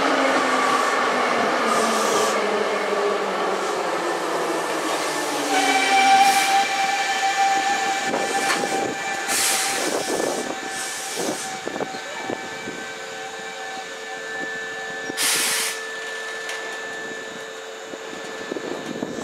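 Hankyu 5300 series electric train braking to a stop at a platform: its motor whine falls in pitch over the first several seconds, then steady high squealing tones and a few clanks come as it halts. A short air hiss comes about fifteen seconds in, and a steady hum continues while the train stands.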